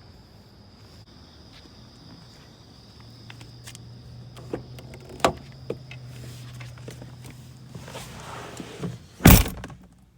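Footsteps and small clicks, then a car door shutting with one loud thunk about nine seconds in, with a low hum and a steady high insect chirr before it.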